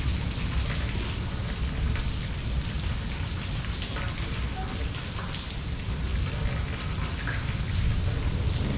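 Steady rain falling and pattering on surfaces, with scattered individual drop ticks over a continuous low rumble, growing a little louder near the end.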